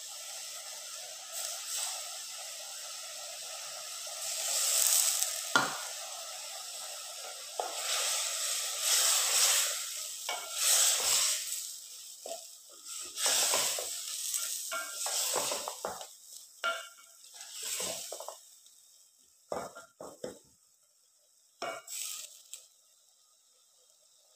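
Spiced ground beef frying and sizzling in a metal pot as julienned beetroot is stirred in with a wooden spatula. The sizzle is steady at first, then comes in irregular bursts with the stirring, and dies down near the end.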